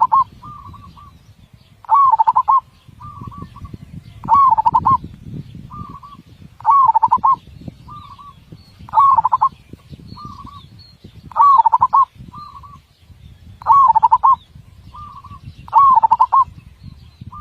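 Perkutut (zebra dove) cooing its song over and over, a phrase about every two and a quarter seconds: each a loud rolling coo followed by a softer short note. A big voice with tightly spaced beats.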